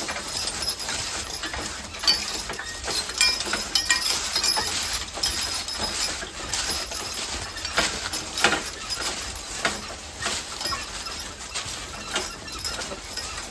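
Team of draft horses being driven along a woodland trail: a steady, irregular run of metallic clinks from the harness, mixed with knocks and crunches of hooves and the rig they pull.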